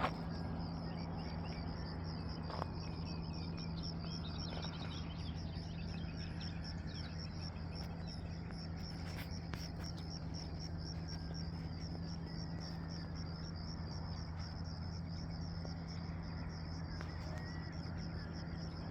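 Rural morning ambience: a steady, rapidly pulsing high trill with scattered small bird chirps, mostly in the first half, over a low steady hum.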